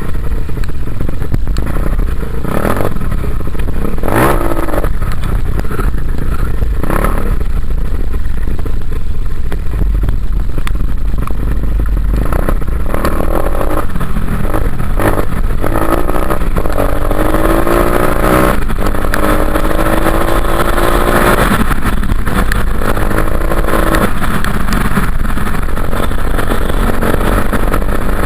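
Dirt bike engine running under way, its note climbing and dropping as the rider works the throttle, with a long climb in the middle.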